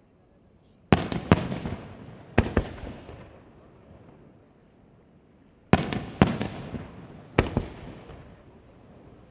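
Aerial fireworks shells bursting: six sharp bangs in two groups of three, the first group about a second in and the second a little before the middle-to-late part, each bang followed by an echo that dies away over a second or so.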